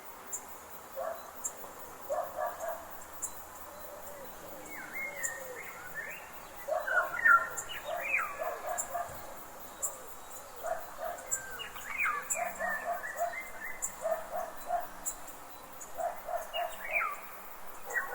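Forest ambience with birds calling: short low notes repeated in threes, and rising and falling whistled phrases that come in two bursts. Faint, regular high ticks sound throughout.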